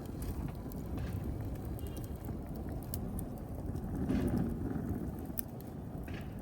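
Wood fire burning in a fireplace: a steady low rush of flames with scattered sharp crackles and pops, swelling briefly about four seconds in.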